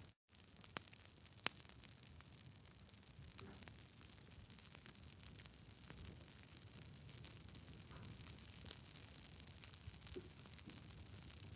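Wood campfire burning with a faint steady hiss and scattered crackles and pops, one sharper pop about a second and a half in. The sound cuts out for a moment just after the start.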